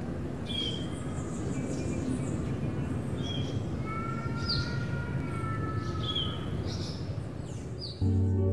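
Birds chirping repeatedly over a steady low background rumble. Keyboard music starts near the end.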